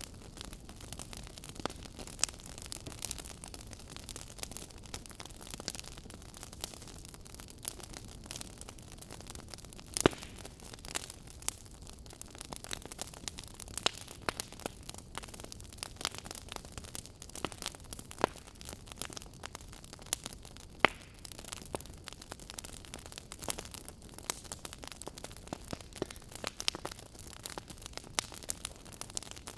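Wood fire crackling: irregular sharp pops and snaps over a soft steady hiss of burning logs, with a couple of louder pops about ten and twenty-one seconds in.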